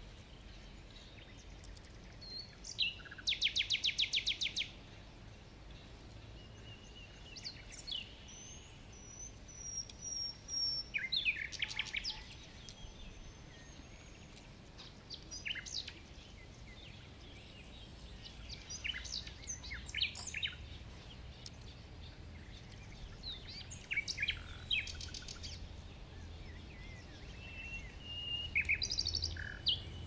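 Wild birds chirping and calling, with a rapid trill about three seconds in and short scattered chirps after it.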